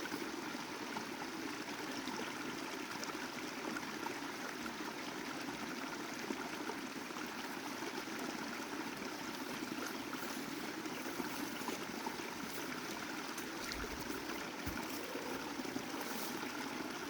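Spring water flowing steadily.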